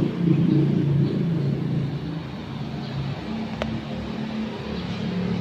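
A motor vehicle's engine running steadily with a low, uneven hum, and one sharp click about three and a half seconds in.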